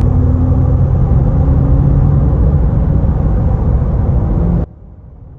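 A loud truck engine running hard, with a steady low pitch that shifts slightly. It cuts off suddenly about four and a half seconds in, leaving a faint low hum.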